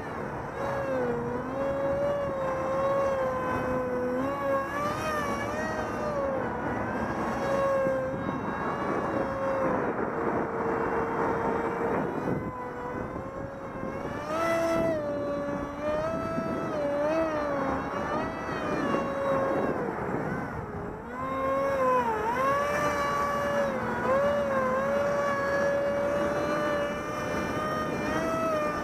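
Small electric RC plane's 2200 kV brushless motor and 6x4 propeller whining in flight, the pitch wavering up and down with throttle and the plane's passes. Gusty wind buffets the microphone underneath.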